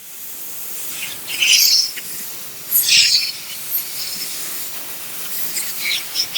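Steam hissing steadily from an electric steam cleaner's nozzle, with two louder spurts of steam in the first half and smaller ones near the end.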